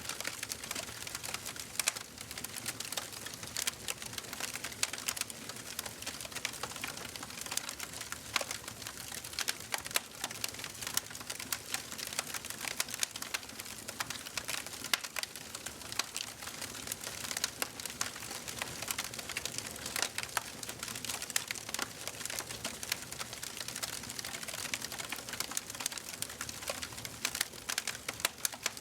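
Wood fire burning in a fireplace, crackling and popping steadily with many small irregular snaps over a soft hiss.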